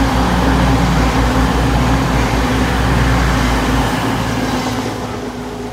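Class 222 Meridian diesel multiple unit passing close along the platform: its underfloor diesel engines run with a steady low hum over the rumble of wheels on rail. The sound fades from about four seconds in as the train moves away.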